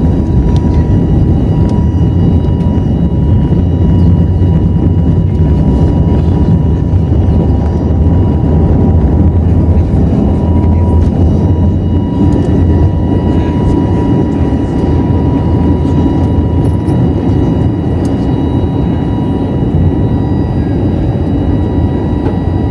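Airbus A321neo's jet engines at high thrust for takeoff, heard from inside the cabin: a loud steady rumble with a steady whine near 1 kHz over it. It eases a little about halfway through.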